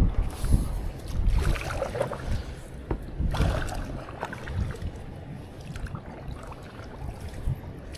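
Strong wind buffeting the microphone in gusts, with water sloshing against a small boat's hull; the gusts are strongest about three times in the first four seconds, then ease.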